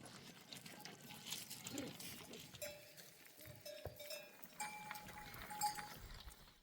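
Bells hung on a flock of sheep and goats ringing as the animals move, with livestock bleats among them. The bells give held ringing notes, a lower one a few seconds in and a higher one after it.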